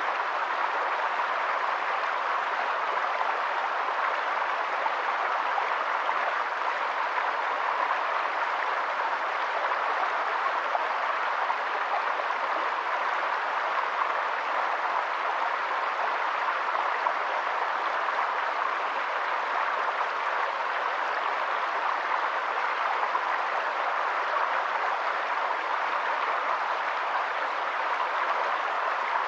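Steady, even rush of running water that does not change in level.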